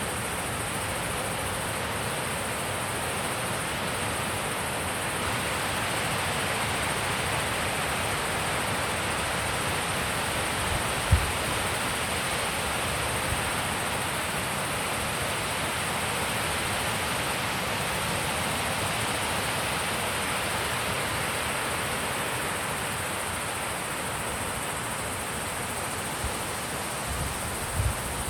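Wind blowing steadily outdoors, an even, continuous rush of noise, with a brief low bump about eleven seconds in and a few more near the end.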